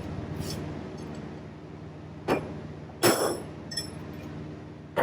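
Hammer blows on a chisel knocking a bearing race out of a John Deere 24T baler's wheel hub: a few sharp metallic strikes with a short ringing, the hardest a little over two seconds in, about three seconds in and near the end, with lighter taps between.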